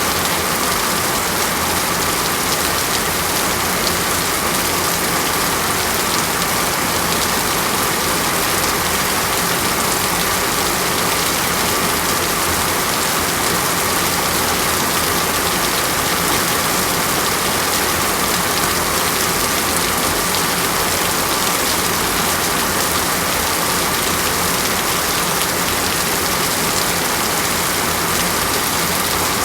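Steady rain falling, an even, unbroken hiss of drops with no gaps or changes.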